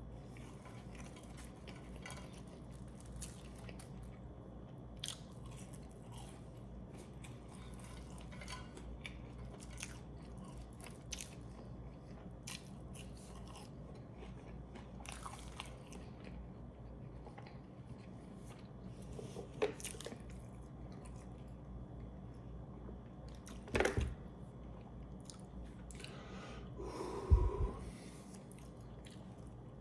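Close-miked chewing of a Double Big Mac: soft, wet mouth clicks and squishes over a low steady hum. A few louder bites or handling noises come near the end.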